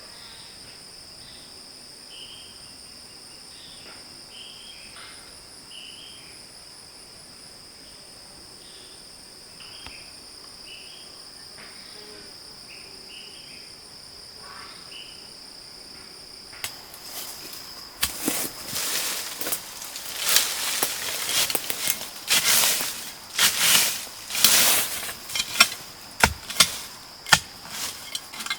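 Insects trilling steadily in two high tones, with short bird-like chirps over them. From a little over halfway in, loud irregular scraping and knocking strokes take over, the sound of manual work such as digging or shifting stones.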